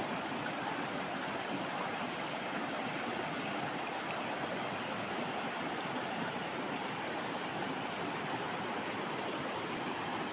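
River water rushing steadily over rocks, a constant even noise.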